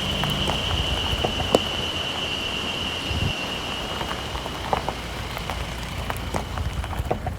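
Rain falling steadily, with scattered drops ticking sharply on a nearby surface. A steady high-pitched tone runs alongside and fades away about five seconds in.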